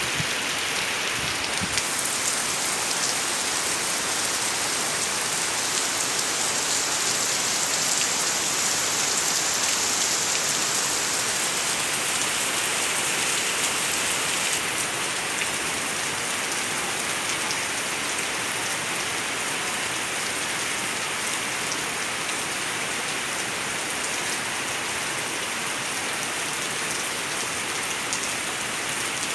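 Steady rain falling, a continuous hiss of many drops striking surfaces. Its texture shifts slightly about two seconds in and again midway.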